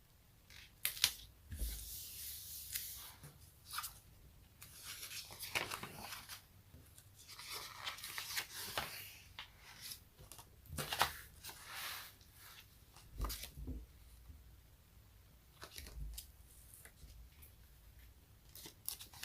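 Sticky surfaces being peeled apart: a series of irregular, crackly ripping peels of varying length, with a few soft low thumps in between.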